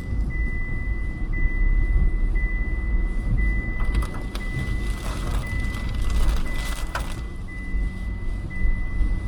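Low rumble of a motor vehicle with a steady high electronic beep that breaks and repeats about once a second. A hissing rush rises from about four to seven seconds in.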